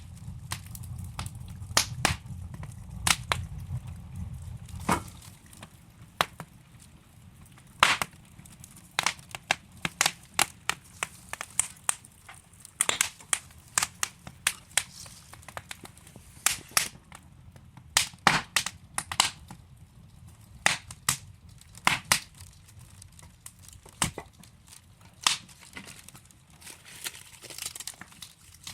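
Wood fire crackling in a fireplace: irregular sharp pops and snaps of burning logs, some loud, a few bunched close together. A low rumble runs underneath for the first five seconds, then drops away.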